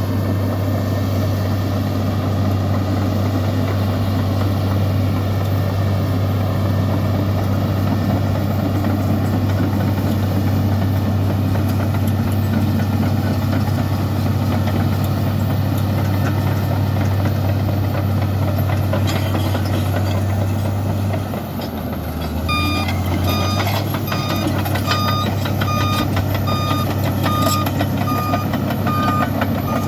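Komatsu bulldozer's diesel engine running steadily, with a brief dip in its note about two-thirds of the way through. A reversing alarm then starts beeping steadily, a bit more than once a second, as the dozer backs up.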